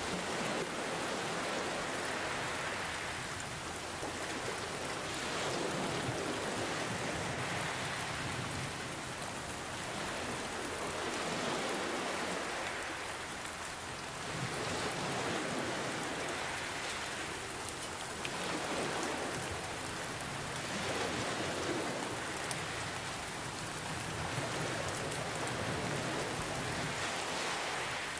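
Steady rain with fine drop patter, over ocean waves that swell and fall back every few seconds.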